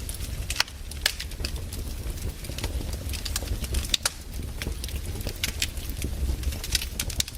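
Firewood burning: irregular crackles and sharp pops over a low, steady rumble of the fire.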